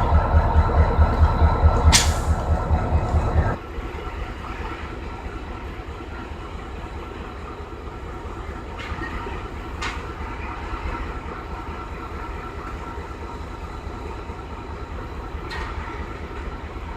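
Diesel locomotive engine running close by with a low pulsing throb, about five beats a second, that drops off suddenly about three and a half seconds in to a quieter steady rumble. A few sharp clicks come through the rumble.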